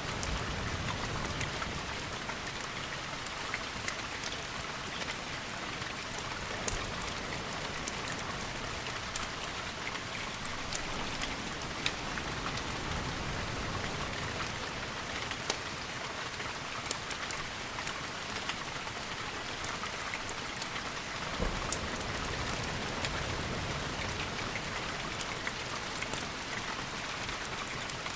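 Steady rain falling on windows, a constant hiss dotted with scattered sharp ticks, with a few soft low rumbles beneath it.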